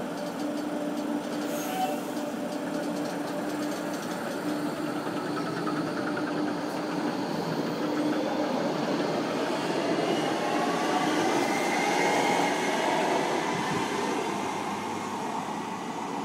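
RET Type R (RSG3) metro train pulling out of the station. A steady hum gives way, about halfway through, to electric traction motors whining upward in pitch as it accelerates. The sound grows loudest as the train passes, then fades.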